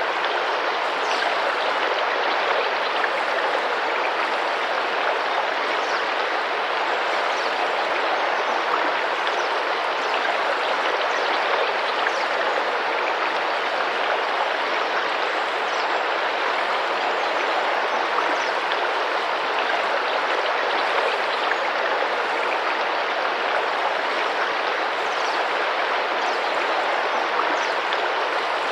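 Tropical rainforest river flowing and splashing steadily over its bed, a constant even rush of water. Faint short high chirps come through now and then.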